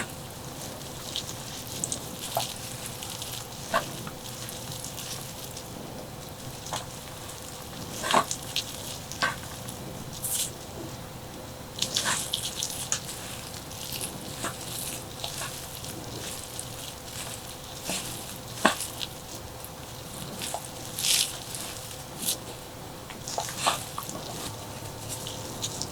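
Close-miked eating: a person chewing and biting food, with irregular crunches, clicks and wet mouth sounds every second or so over a faint steady hum.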